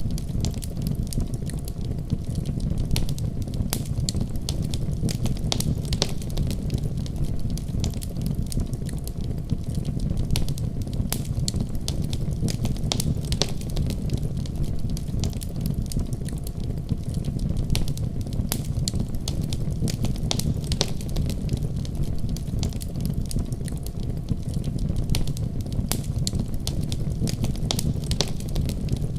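Fireplace fire crackling steadily: a low, even rumble of flames under frequent, irregular sharp pops and snaps.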